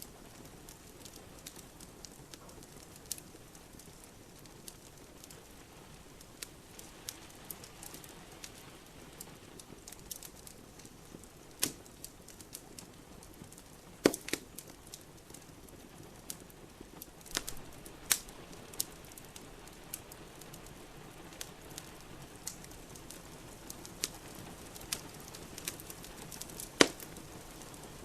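Wood fire in a fireplace crackling, with irregular sharp pops, the loudest about 12, 14 and 27 seconds in, over a soft steady hiss of rain.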